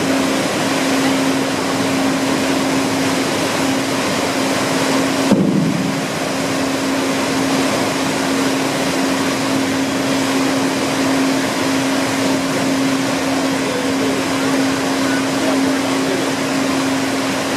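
A ferry under way: a constant low hum from the ship's machinery over a steady rushing noise, with a single short bump about five seconds in.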